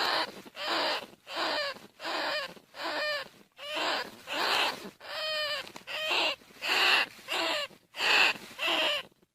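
Bandicoot rat calls: short, high squealing squeaks repeated about twice a second, some of them bending up and down in pitch.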